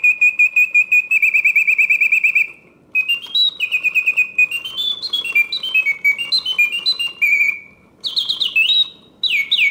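1971 Reuge double singing bird cage's bellows-driven whistle singing on its continuous setting: rapid trills and warbling notes that step and glide up and down, broken by a few short gaps.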